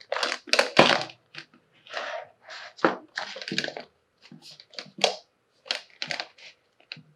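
Toy packaging and small toy pieces being handled: irregular crinkles of plastic wrap with short clicks and taps.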